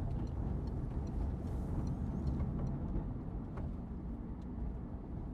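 A car driving along with a steady, low engine and road rumble.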